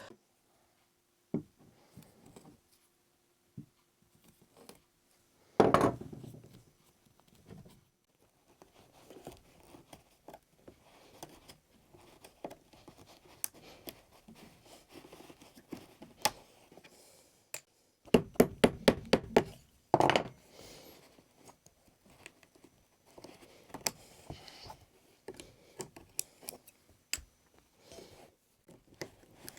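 Scissors snipping loose threads from an old chair's stripped seat, in scattered small snips and scrapes. There is a louder thump about six seconds in and a quick run of about eight sharp clicks a little past the middle.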